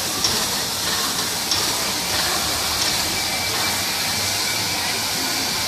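Steam locomotive hissing: a steady escape of steam, with a few faint ticks.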